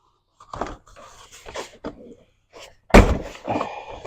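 Irregular clicks and knocks of plastic wiring connectors and clips being unclipped and handled inside a car door, with one loud thump about three seconds in.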